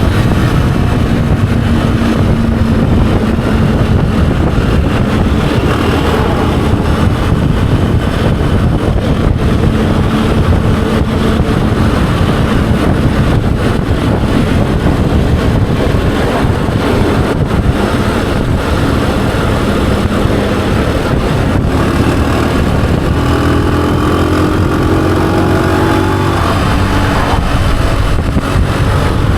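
Honda CG125's air-cooled single-cylinder four-stroke engine running steadily as the motorcycle rides along, its note rising briefly about three-quarters of the way through.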